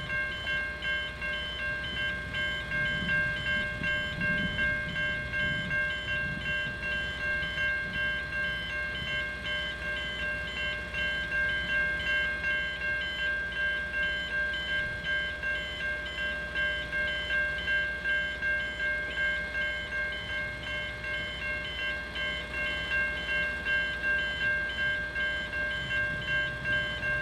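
Safetran Type 3 electronic level-crossing bells ringing in a steady, evenly repeating tone. A low rumble comes in a few seconds in and again near the end.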